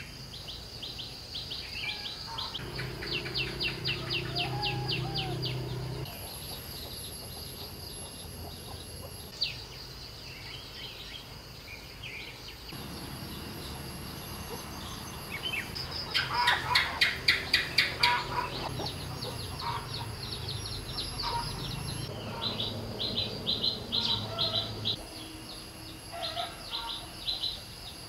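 Small birds calling in rapid series of high, short chirps, with a louder run of about four chirps a second a little past the middle.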